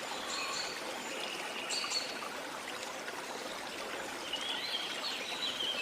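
Waterfall running steadily, with birds calling over it: a few short high whistles in the first two seconds and a quick run of chirps from about four seconds in.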